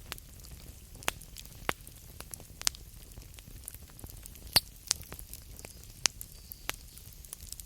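Wood campfire crackling: irregular sharp pops and snaps over a faint steady hiss, with the loudest snap a little past halfway.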